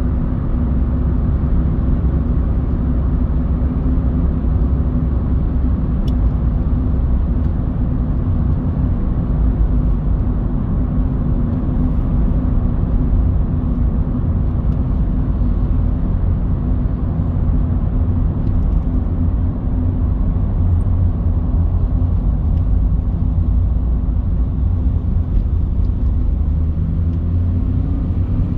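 A car being driven: a steady low rumble of engine and tyre noise that hardly changes.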